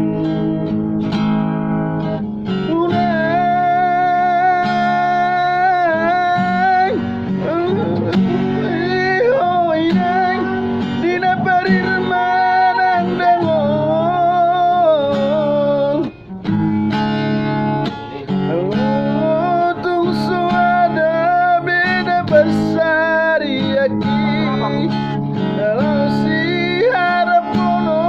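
A solo voice sings a melody with heavy vibrato over plucked guitar accompaniment, pausing briefly about halfway through.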